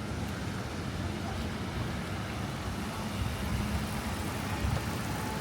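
City street traffic: a steady low rumble of passing cars and other motor vehicles.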